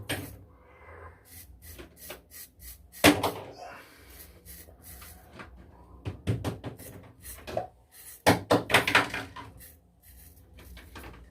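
Bath toys being tossed into a bathtub: irregular knocks and clatters, the loudest about three seconds in and a cluster around eight to nine seconds in.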